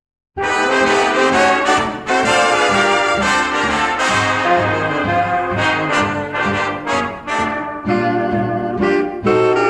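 Brass music, trumpets and trombones playing a lively tune in short, rhythmic notes, starting suddenly just after the beginning.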